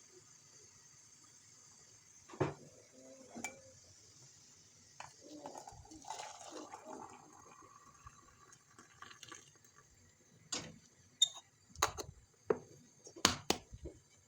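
Kitchen handling sounds: dishes and glassware set down and clinking, with a few seconds of liquid sound in the middle and a quick run of sharp clicks near the end.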